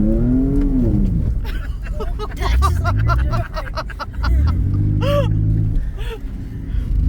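Truck engine revving as it drives through mud, its pitch rising then falling in the first second and holding steady again later, over a heavy low rumble.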